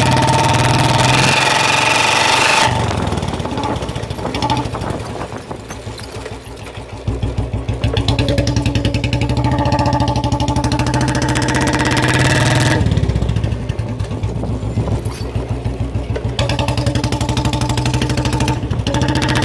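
Royal Enfield single-cylinder motorcycle engine running through a free-flow bend-pipe silencer, with a steady, even exhaust beat. It gets louder and quieter in stretches of a few seconds.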